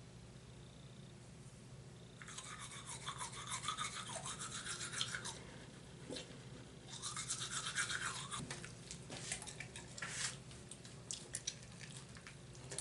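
Teeth being brushed with a toothbrush: two spells of scratchy scrubbing, then a few scattered clicks and taps near the end.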